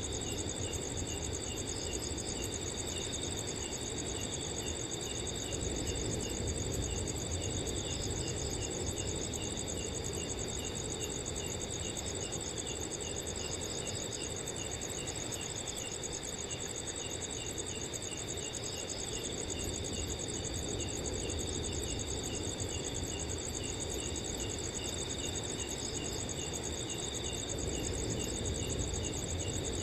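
A chorus of night crickets: a continuous high trill with a steady, evenly repeating chirp from another cricket over it, and now and then a third pulsing in. Under them runs a soft, steady rush of wind.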